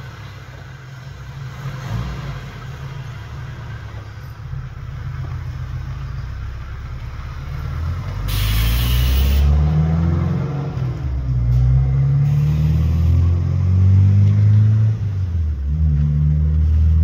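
Vehicle engine running with a low rumble. From about halfway through it rises and falls in pitch as it revs, and there is a brief hiss about eight seconds in.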